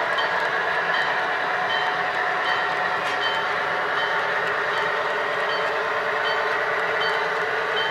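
HO scale model train running, its diesel locomotive sound playing steadily through a small speaker with no deep bass. A short high beep repeats about every three quarters of a second.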